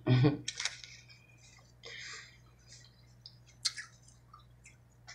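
Close-miked mouth sounds of someone eating: scattered wet clicks and smacks of chewing, with a soft rustle about two seconds in.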